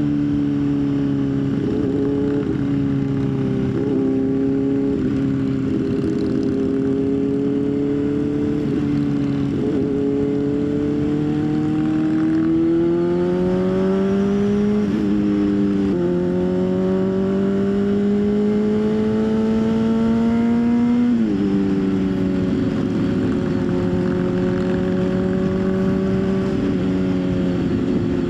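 Motorcycle engine under way with wind rush. It holds a steady pace, then accelerates with rising pitch and upshifts about 15 and 21 seconds in, then settles into a steady cruise.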